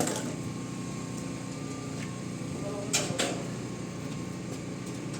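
A steady mechanical hum from a running motor, with a sharp click at the start and two clicks in quick succession about three seconds in.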